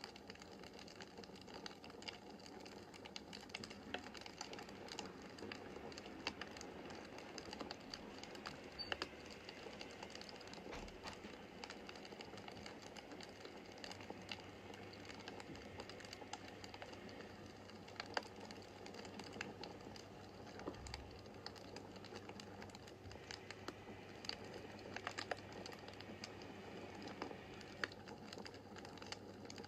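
Wood fire burning in a fireplace: a soft steady hiss of flames with frequent small, irregular crackles and a few sharper pops.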